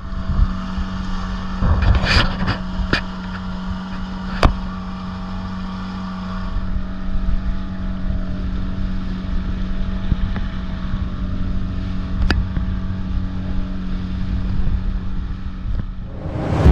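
Boat motor running steadily with a low, even hum, with a few sharp knocks about two to four seconds in and another one near the end.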